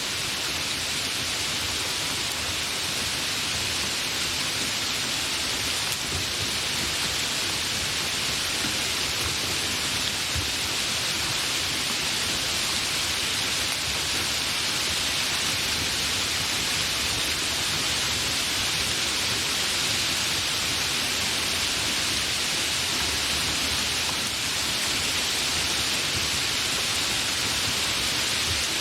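Steady, fairly heavy rain falling as an even hiss, with no thunder.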